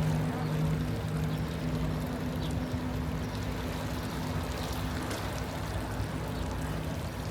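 Steady rushing of flowing water, with a low steady hum underneath that fades near the end.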